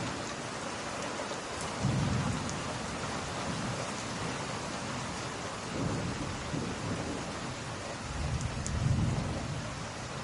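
Steady rain with low rolls of thunder, one about two seconds in and a stronger one near the end, and a few faint crackles over the top.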